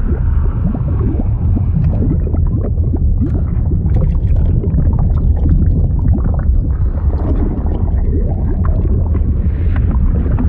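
Liquid sound effect: a steady low rumble of churning water with dense bubbling and gurgling on top.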